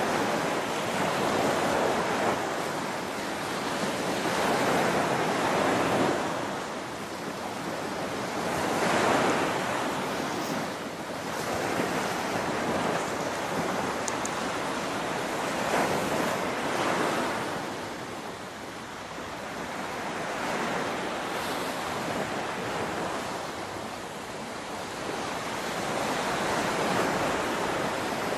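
Rushing water from a waterfall, a steady roar that swells and eases every few seconds, with some wind on the microphone.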